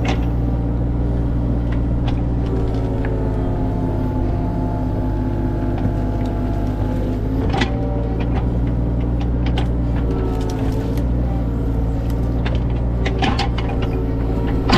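A motor vehicle's engine running steadily with a low hum, with a few sharp clicks and knocks about halfway through and again near the end.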